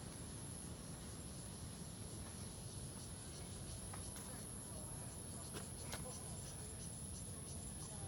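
Insects chirping in a continuous, steady, high-pitched drone over a low outdoor rumble, with a few faint sharp ticks in the middle.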